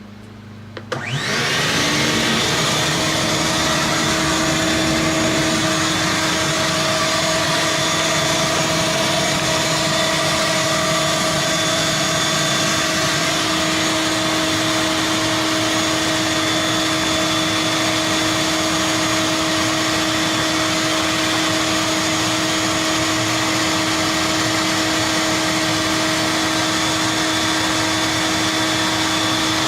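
Shop vac switched on about a second in, its motor spinning up quickly and then running steadily at full speed, drawing air through a long extension hose to suck bees out of a hive.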